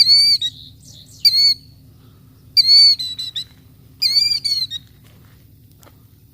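Killdeer giving shrill, repeated alarm calls: four loud calls about a second and a half apart, the last two running on into quick strings of shorter notes. This is the distraction call of a killdeer guarding its ground nest of eggs, part of its feigned-injury display.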